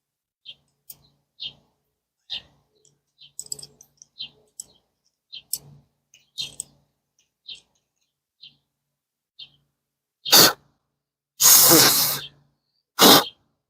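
Light scattered metal clicks and ticks from hand-tool work, about one a second, as a thread tap is worked in a grease-fitting hole. Near the end come three loud rushing blasts of air, the middle one about a second long.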